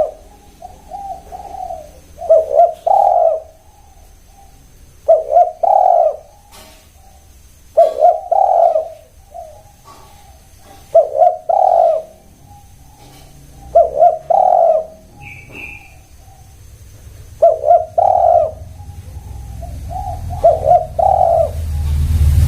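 Spotted dove (tekukur) cooing, repeating its short phrase of a few quick notes ending in a longer coo about every three seconds. A smaller bird chirps once midway, and a low rumble rises near the end.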